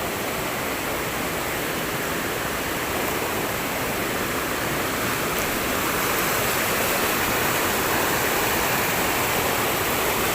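Steady rush of water flowing in a mountain stream, growing a little louder about six seconds in.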